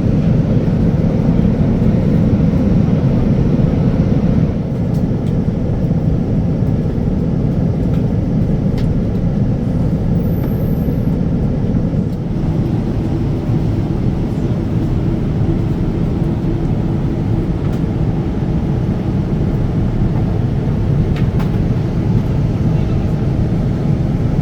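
Steady low rumble of airliner cabin noise aboard a Boeing 787-9 Dreamliner, with abrupt shifts in its character about four and a half and twelve seconds in.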